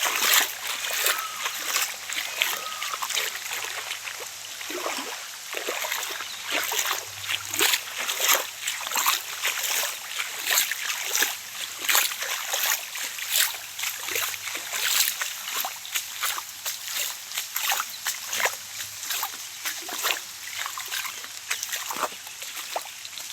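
Rain falling, with a dense, irregular patter of drops splattering on nearby surfaces.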